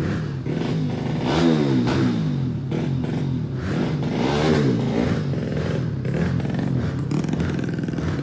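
Motocross bike engine running and being revved, the pitch rising and falling twice: once about a second in and again about four seconds in.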